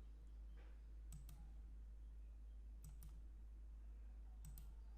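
Faint computer mouse clicks: three quick double clicks about a second and a half apart, over a low steady hum.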